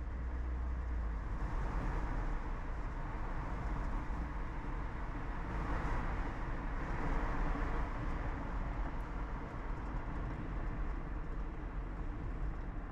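Steady road noise inside a moving car: a low rumble with tyre and wind hiss, swelling briefly a little past the middle.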